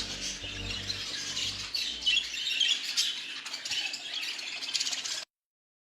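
Many small cage birds chirping and squawking together in a bird-breeding aviary, a dense high twittering. Background music fades out in the first two seconds, and all sound cuts off abruptly about five seconds in.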